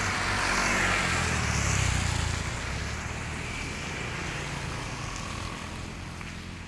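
A motor vehicle engine passing by, its low hum loudest in the first two seconds and then fading.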